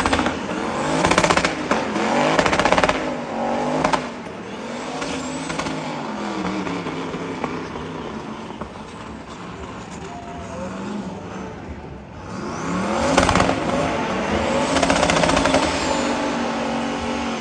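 El Camino burnout car's engine revving hard up and down over and over while its rear tyres spin in smoke doing donuts. It is loudest for the first few seconds and again from about 13 to 16 seconds in, and eases off in between.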